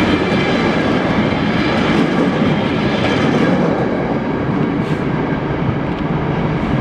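Freight train passing through a station: a steady, loud rolling noise of wagon wheels on the rails, with a few faint clicks from the wheels over rail joints.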